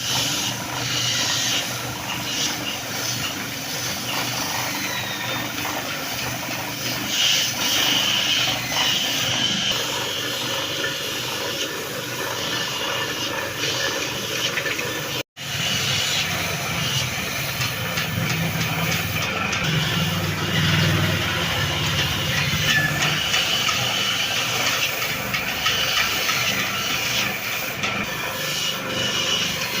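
Woodworking shop machinery running with a steady hiss. The sound cuts out briefly about halfway, then a low motor hum comes in for a few seconds.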